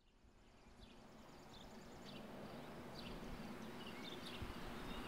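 Outdoor background noise fading in from silence, with birds chirping briefly every second or so.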